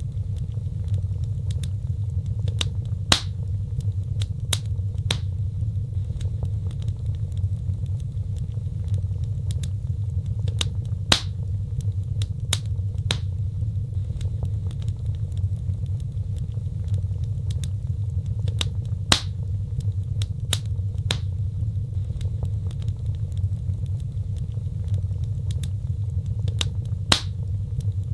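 Wood fire in a fireplace crackling: a steady low rumble of burning with scattered sharp pops and snaps, the loudest of them about eight seconds apart.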